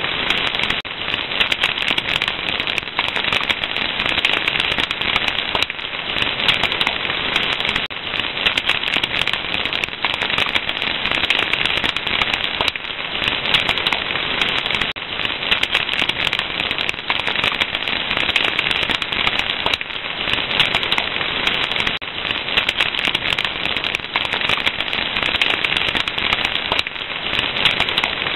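Fire crackling continuously: a dense stream of small snaps and pops at an even level.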